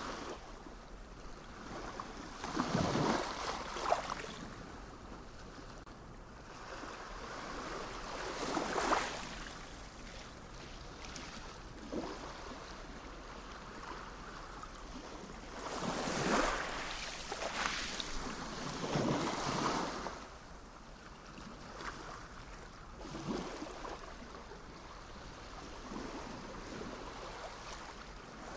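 Sea waves breaking and washing onto the shore, a swell of surf every few seconds, with the strongest washes about three, nine and sixteen to nineteen seconds in. Wind noise on the microphone runs under it.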